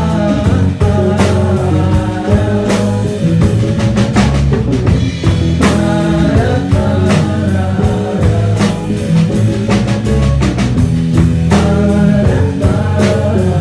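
Live rock band playing a song, with drum kit, guitar, bass and keyboard.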